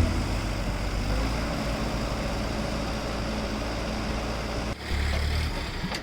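A heavy engine running steadily under a wash of open-air noise. Just before the end it drops out briefly, then the low rumble comes back louder.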